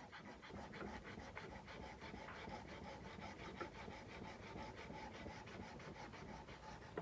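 Sandpaper rubbed by hand along a kukri's steel blade in quick, even back-and-forth strokes, about four or five a second, stopping about seven seconds in.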